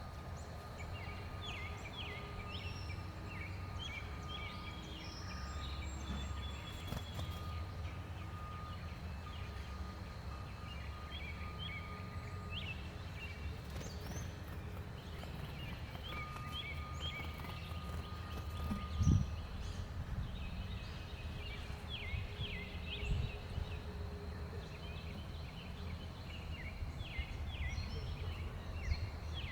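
Many small songbirds chirping in short, high clusters over a steady low outdoor rumble, with one dull thump about two-thirds of the way through.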